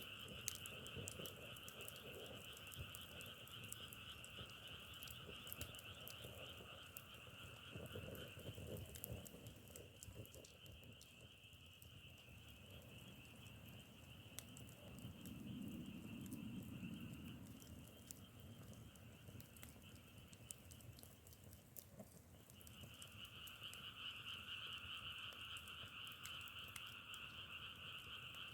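Faint chorus of frogs calling continuously in two pitched bands, thinning out in the middle and swelling back strongly in the last several seconds, with faint scattered crackles of burning firewood.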